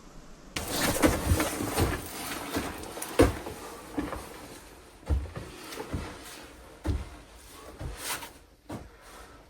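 Irregular knocks and scuffs, about one a second, starting about half a second in.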